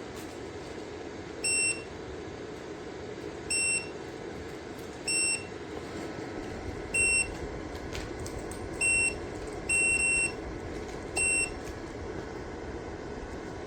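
Electric space heater's control panel beeping, about eight short high beeps at uneven intervals, as its buttons are pressed, over the steady whir of the heater running.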